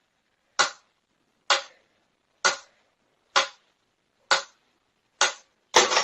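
A sharp click repeating about once a second, seven times, each cut off quickly with dead silence between.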